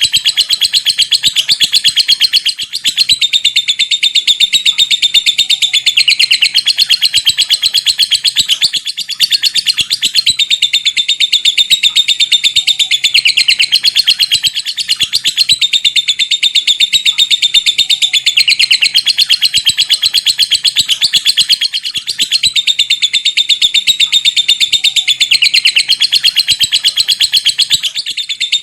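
Lovebird giving a long 'ngekek' chatter with 'ngetik' ticking: a loud, very rapid, continuous run of high-pitched ticks. It breaks off for a moment every six or seven seconds and starts again at once.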